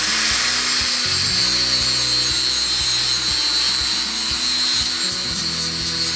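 Powered flap disc sander grinding the steel edge of a lawn mower blade, a steady high-pitched grinding whine, to sharpen the dull blade.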